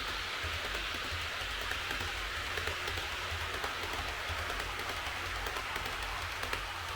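HO-scale model electric train running on track: a steady whirring hiss of motor and wheels with a low rumble and faint scattered ticks.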